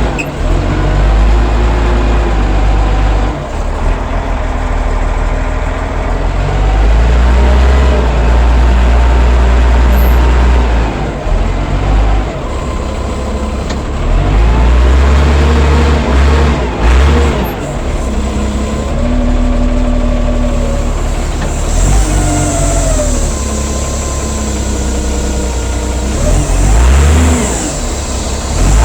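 Allis-Chalmers 940 wheel loader's diesel engine working under varying load, revving up and dropping back several times, its pitch rising and falling.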